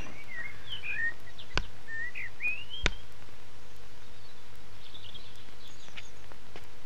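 Birds chirping in short rising and falling calls over a steady background hiss, with two sharp clicks about a second and a half and three seconds in.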